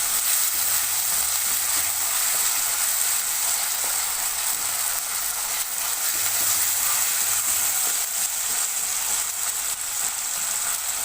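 Ginger-garlic paste with onions and tomatoes sizzling steadily in hot oil in a kadai, being sautéed to cook off the raw smell of the paste.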